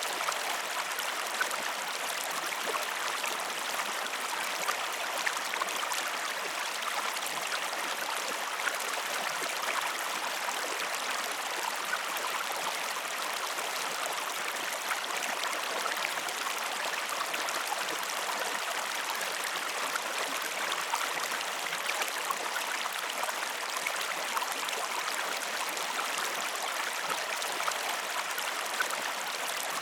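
A stream flowing steadily, a continuous rushing trickle of water with fine splashing detail and no pauses.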